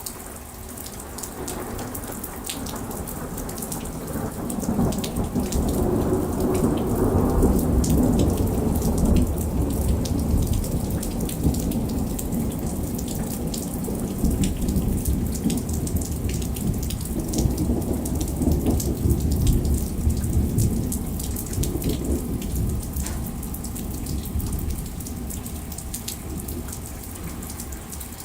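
Heavy rain beating down, with many sharp drop impacts throughout. Low rolling thunder swells in about four seconds in, fades, then rumbles again past the middle.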